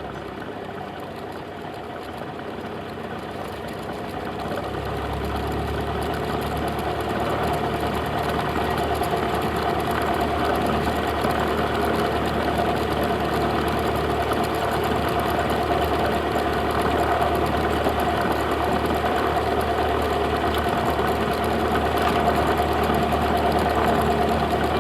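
Cessna 172's piston engine and propeller droning steadily. It grows louder over the first several seconds, with a deeper hum coming in about five seconds in, then holds a steady level.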